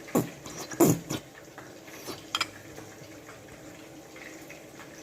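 Ketchup being measured out by the tablespoon from a nearly empty supply: two short squelching sputters in the first second, then a couple of light clicks of the spoon about two seconds in.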